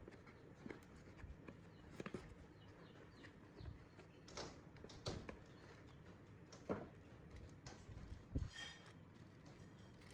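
Quiet, irregular clicks and knocks of small parts and tools being handled, a handful of separate taps spread a second or two apart over faint room tone.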